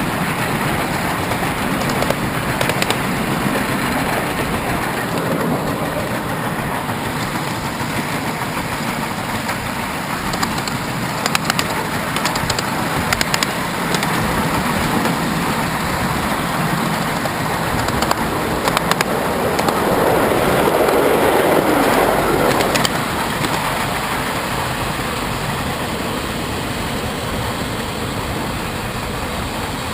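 Train rolling along the track with a steady rumble and rattle. Scattered sharp clicks come from the wheels over the rails, and the noise swells louder about twenty seconds in.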